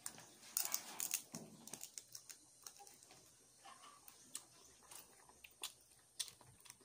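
A person chewing crunchy food: a quick run of crisp crunches in the first two seconds, then scattered small crunches and clicks.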